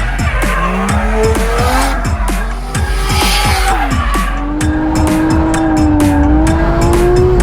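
Single-turbo 1JZ straight-six of a Toyota Chaser JZX100 drift car, with tyres squealing through a drift. The revs swing up and down for the first few seconds, then hold fairly steady.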